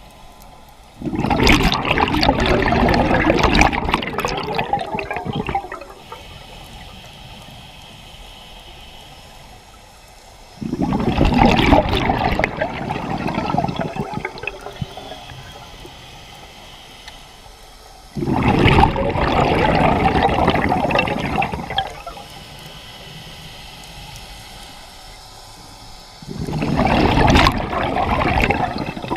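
Scuba regulator exhaust bubbles rushing and gurgling as a diver breathes out, four exhalations about eight seconds apart with a faint steady hiss between them.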